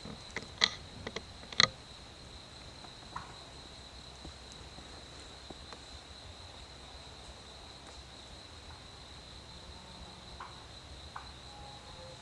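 Steady high-pitched insect drone, with a few sharp clicks in the first two seconds.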